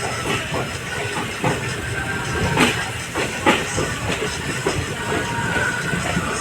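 Passenger train running, heard aboard an ICF coach: a steady rushing hiss with irregular clacks and knocks from the wheels and coach.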